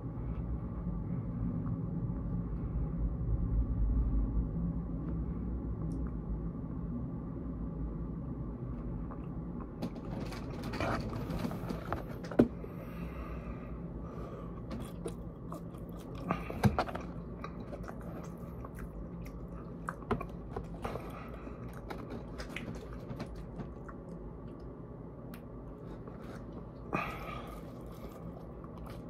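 A person chewing and biting food close to the microphone: wet mouth sounds and soft crunches. A low rumble runs under the first third, and scattered sharp clicks and short crackles follow.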